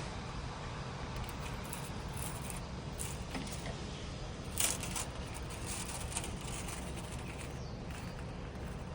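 Light, intermittent scraping and rustling as chrysalises and their silk are pulled off the butterfly house, loudest about halfway in, over a steady low background rumble.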